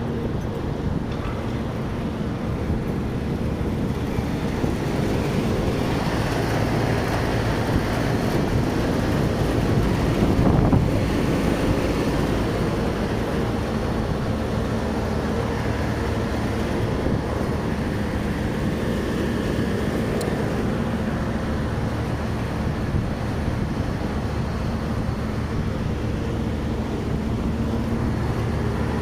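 A 25-ton Trane package air-conditioning unit running: a steady mechanical noise with a low hum, swelling a little about ten seconds in.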